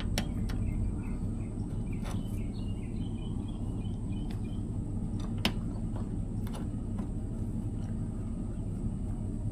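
Steady low background hum, with a few light clicks and taps scattered through, the sharpest about five and a half seconds in, and faint bird chirps in the first couple of seconds.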